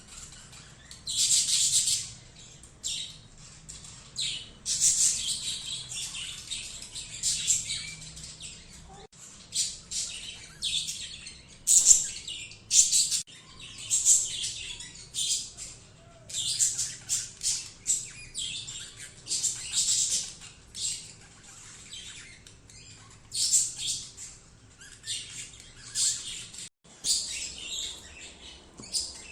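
Budgerigars chirping, with many short high chirps coming in quick runs and brief pauses.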